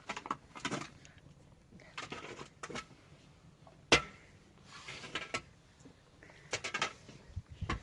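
Scattered knocks, clicks and rustling of things being handled, with one sharp knock about four seconds in.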